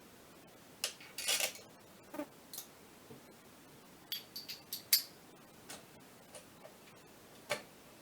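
Scattered sharp clicks and light taps of hand tools and small metal parts being handled during bench assembly of a clutch actuator. There is a short cluster about a second in, a quick run of clicks around four to five seconds in, and a single click near the end.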